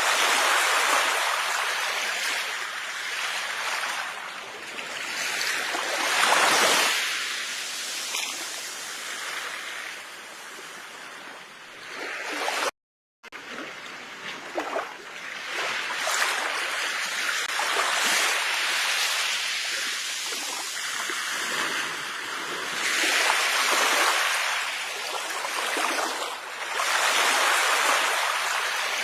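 Sea waves washing onto a shore, a steady rush that swells and ebbs every few seconds. The sound cuts out completely for a split second about 13 seconds in.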